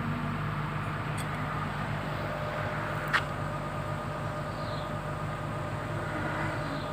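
Komatsu PC200-7 excavator's diesel engine running steadily while the machine is held still. A single sharp click comes about three seconds in.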